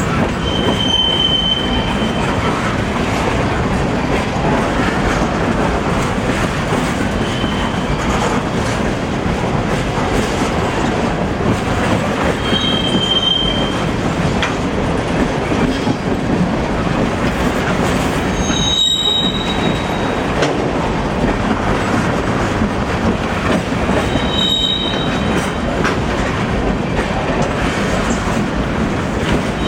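Freight train rolling past on the CSX main line: a steady, loud rumble and rattle of wheels and cars on the rails, with brief high-pitched wheel squeals every few seconds.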